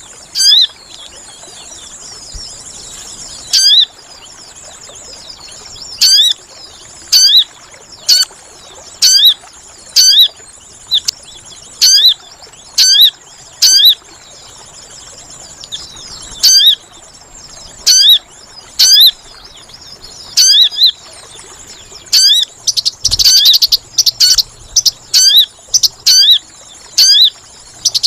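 Sogon bird calls played as a trapping lure: short, sharp calls repeated about once a second, turning into a rapid, busy chatter near the end, over a steady high insect drone.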